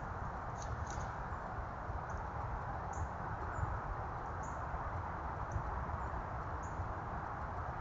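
Steady hiss of a trail camera's microphone, with faint, short high ticks scattered every half second or so.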